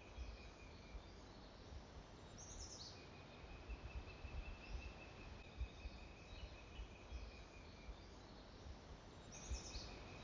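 Faint bird song: a short high note, then a long steady whistle held for several seconds, heard about twice, with pauses between. A low rumble of wind on the microphone runs underneath.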